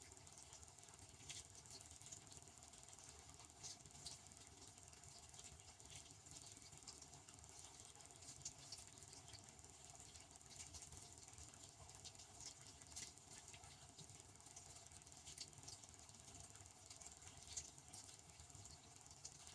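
Devanti benchtop dishwasher running a wash cycle: water spraying inside the tub, heard as a faint, steady patter with irregular small ticks over a low hum.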